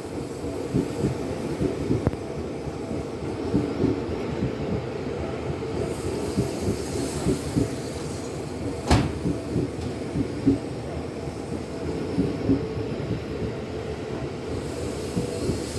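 Seibu 6000 series electric train running out of the station: a steady rumble of wheels on rail with scattered clacks over the rail joints and one sharp click about nine seconds in.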